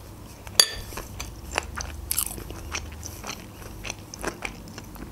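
Close-miked mouth sounds of chewing a bite of fried, flour-crusted potato cutlet with meat inside: a string of small crunches and wet clicks, the loudest about half a second in.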